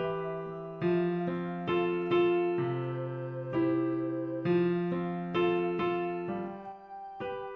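Instrumental piano music: slow chords struck roughly every half second to a second, each left to ring and fade before the next.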